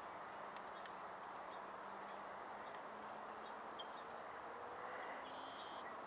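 Two short, high bird whistles, each sliding down and levelling off, about five seconds apart, over steady outdoor background noise.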